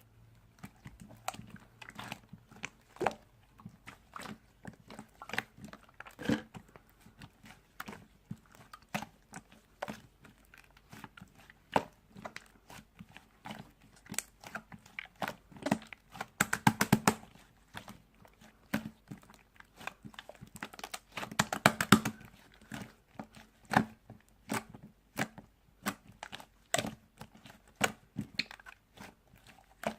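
Close, irregular crunching, crinkling and clicking, with two denser flurries of crackling about halfway through and again about two-thirds of the way through.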